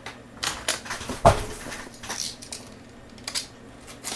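A cardboard box being cut open with a knife: scattered clicks and scrapes of the blade and cardboard, with one dull knock about a second in.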